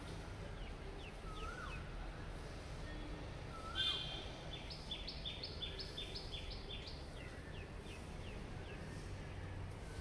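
Birds chirping over a steady low background noise: scattered quick chirps, then a fast run of about a dozen short repeated notes around the middle.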